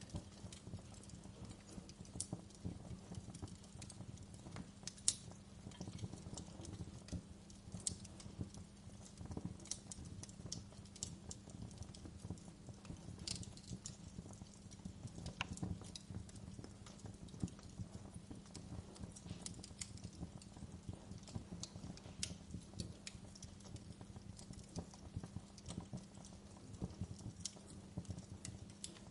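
Fireplace wood fire burning: a low steady rumble of the flames with irregular sharp crackles and pops, one louder pop about five seconds in.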